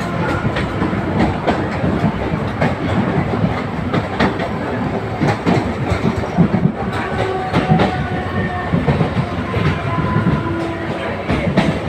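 Mumbai suburban local train running along the tracks, its wheels clattering in quick irregular clicks over the rail joints under a steady rumble, with brief squealing tones now and then.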